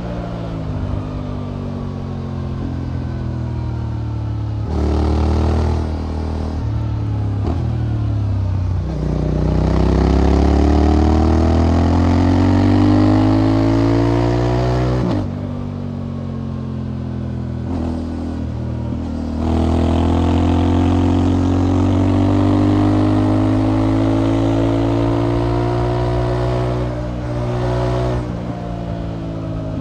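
Motorcycle engine pulling hard through the gears. Its pitch climbs in long sweeps, drops abruptly at each upshift (one about halfway through and another a few seconds later), then climbs again before easing off near the end.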